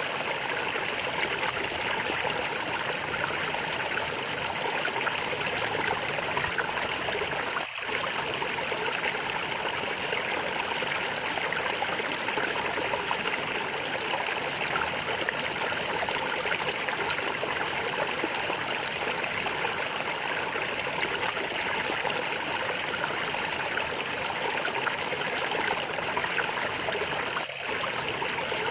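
A stream of water gurgling and splashing steadily over stones, with two momentary dips in the flow sound.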